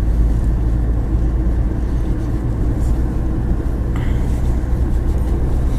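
Car driving through city streets, heard from inside the cabin: a steady low rumble of engine and tyre noise.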